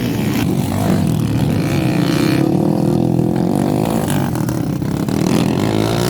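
Honda XRM single-cylinder four-stroke motorcycle engines revving hard while racing, the pitch rising and falling steadily.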